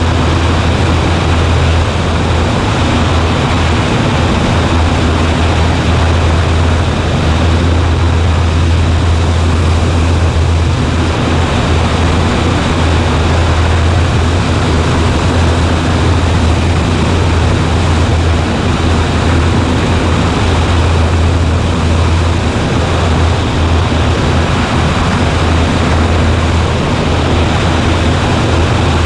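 Cessna 140A's piston engine and propeller running steadily in flight, one constant low drone that does not change.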